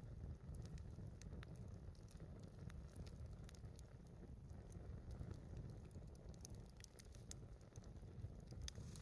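Wood fire crackling faintly, with scattered sharp pops and ticks over a low steady rumble.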